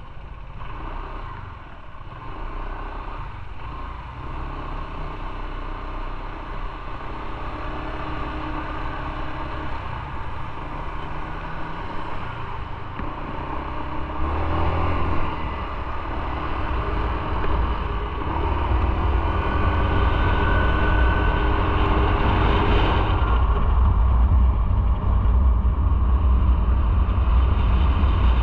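Motorcycle riding on the road, its engine running under wind and road noise, getting louder from about halfway in, with the engine note climbing a little around two-thirds through.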